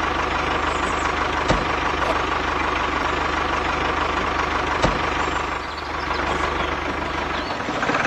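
Tractor engine idling steadily with a fast low pulse, broken by two sharp clicks, the first about one and a half seconds in and the second about five seconds in; the low running sound stops about seven and a half seconds in.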